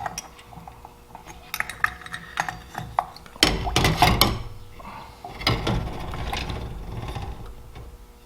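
Small metal carburetor parts clinking as they go into a can of carburetor chem dip, with light clicks at first, then a louder, longer stretch of clattering and handling noise from about three seconds in.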